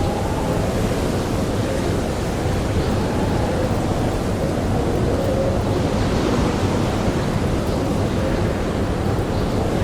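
Steady blizzard wind, a dense rushing noise with a faint wavering howl, and a few faint crackles from a campfire.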